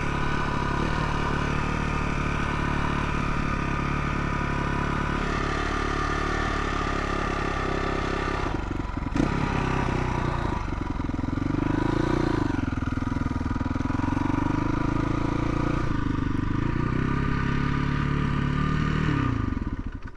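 Dirt bike engine running on the move, steady at first, then rising and falling in pitch from about ten seconds in as the throttle changes.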